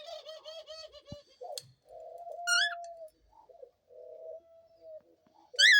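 Pet doves cooing: a fast pulsing coo at first, then longer held coos. Two loud, short rising-and-falling chirps cut in, one about two and a half seconds in and one at the end.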